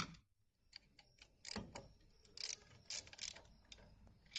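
Irregular metallic clicks and light knocks from a hand tool tightening the bolt that holds the air conditioning line to the compressor.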